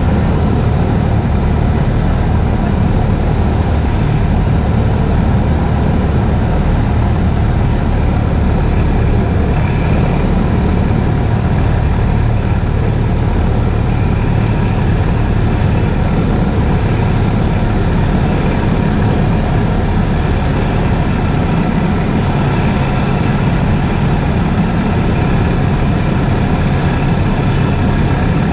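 Steady drone of a Cessna 172's piston engine and propeller heard inside the cockpit, an even, unchanging hum with constant rushing noise over it.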